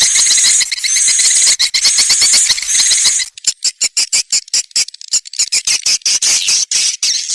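Swiftlet calls played as a lure sound for a swiftlet nest house. A dense, high buzzing twitter runs for about three seconds, then gives way to a quick series of separate clicking chirps.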